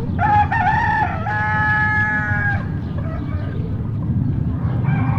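A rooster crows once, a long call held for about two seconds, over a steady low rumble. A second call starts near the end.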